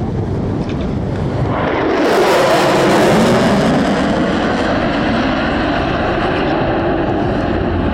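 Boeing EA-18G Growler's twin F414 turbofan jet engines passing in a flyby: the jet noise swells sharply about two seconds in, then its pitch falls steadily as the aircraft goes by.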